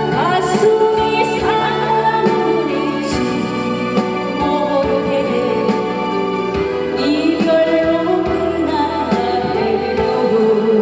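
Korean trot song with a woman singing over a full accompaniment; the melody line slides and wavers in pitch.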